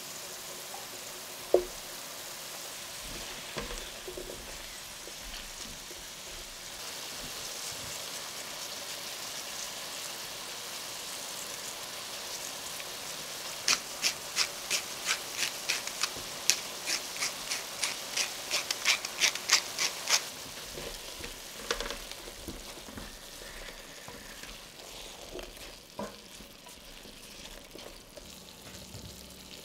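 Shallots, garlic and sweet potato wedges sizzling steadily in a stainless steel pan as the wedges go in. About halfway through comes a quick run of about twenty sharp taps, and near the end the pan is stirred with a spatula.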